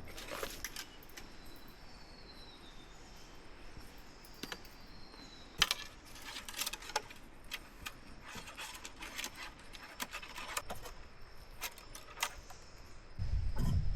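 Scattered light clicks, taps and scrapes of bamboo being handled, over a steady high insect drone. Heavier knocks and rustling begin near the end.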